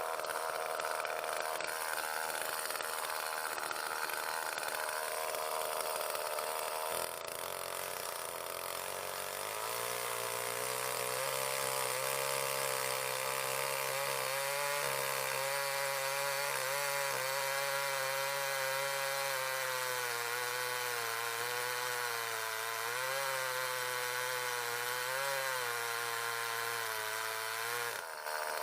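Echo CS-361WES two-stroke chainsaw running at high revs while ripping a log lengthwise into slabs. The engine note shifts lower about seven seconds in and wavers under the load of the cut, with a brief dip just before the end.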